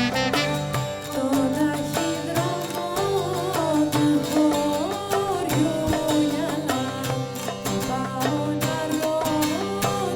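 Traditional Byzantine-style music: an ornamented, wavering melody over a steady low drone, with plucked strings.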